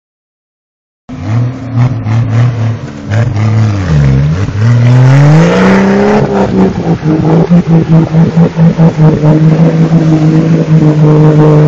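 Four-wheel-drive truck engine revving under load: its pitch dips about three to four seconds in, then climbs and is held high and steady, easing off at the very end.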